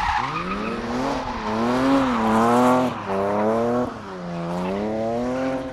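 BMW E36 race car's engine revving as the car drifts on a wet track, its pitch rising and falling about four times, with tyre noise underneath.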